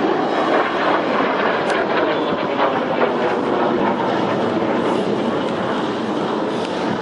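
Loud, steady jet noise of L-39C Albatros jet trainers making a display pass, their turbofan engines running with a dense rushing roar that eases slightly near the end.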